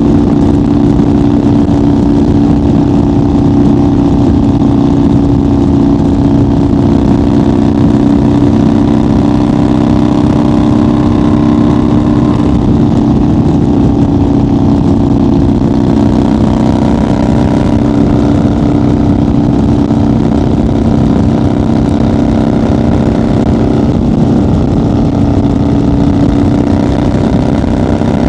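1990 Harley-Davidson FXR's Evolution V-twin engine running at a steady highway cruise, its exhaust note loud and even in pitch.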